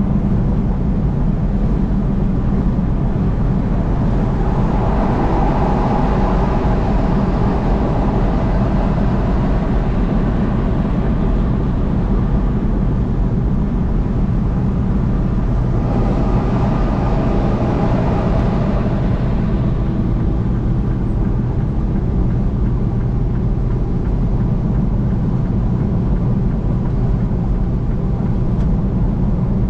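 Steady road noise of a car driving at highway speed: tyre roar with a low engine hum underneath. The roar swells twice, about five seconds in and again about sixteen seconds in.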